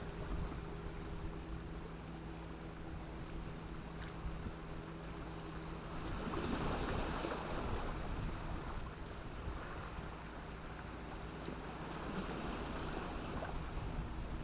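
Sea waves washing onto the shore, a steady wash that swells with a larger wave about six seconds in and another near the end. A faint steady low hum runs underneath.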